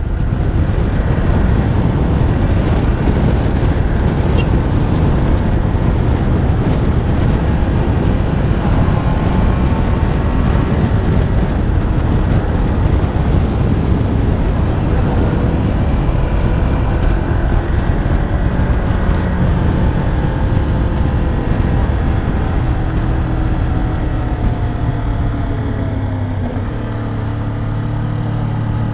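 Motorcycle engine and heavy wind noise while riding, the engine pitch rising and falling through the bends. Near the end the engine note drops and settles to a steady low rev as the bike slows.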